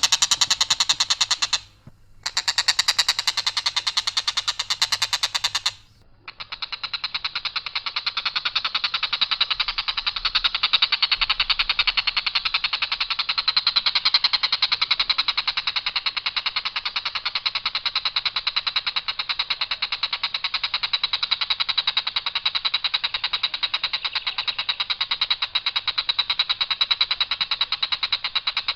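Tengkek buto giving its long, harsh rattling call, a very fast even trill without variation, broken by two short pauses in the first six seconds and then running on unbroken.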